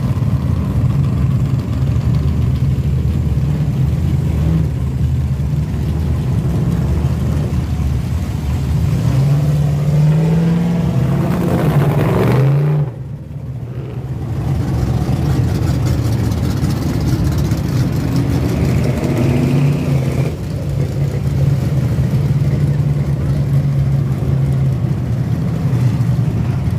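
An engine running steadily with a low hum; about ten seconds in it revs up, rising in pitch, then drops off suddenly near thirteen seconds before settling back to a steady run.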